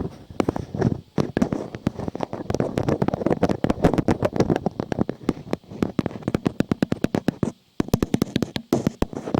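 Dense, rapid crackling and clicking, many sharp snaps a second, with a brief break about three-quarters of the way through.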